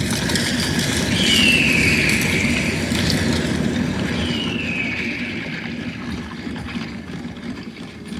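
Recorded battle sound effects played over a light-and-sound show's loudspeakers: a dense rumble with two descending whistles about three seconds apart, growing quieter toward the end.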